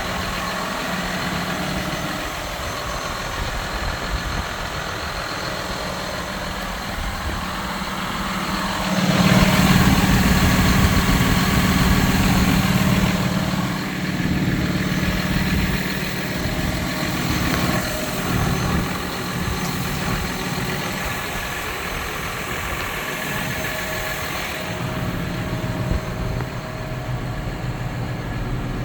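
John Deere 6155R tractor's six-cylinder diesel engine idling steadily, getting louder for a few seconds about nine seconds in, then settling back to idle.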